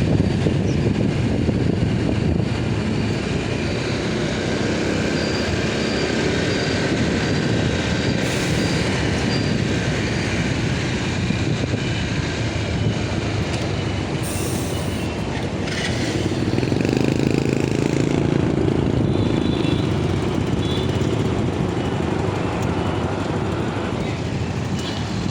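Motorcycle running on the move, a steady mix of engine and road noise.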